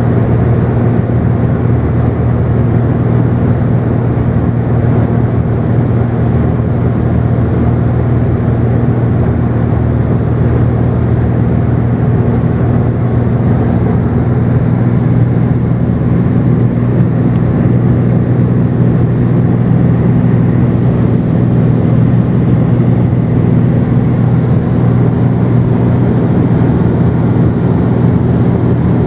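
Cessna 210's six-cylinder piston engine and propeller droning steadily in cruise, heard loud from inside the cabin, with a constant low hum and no change in pitch.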